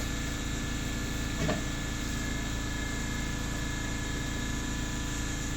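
Steady machine hum with several fixed tones at a constant level, with one short faint sound about a second and a half in.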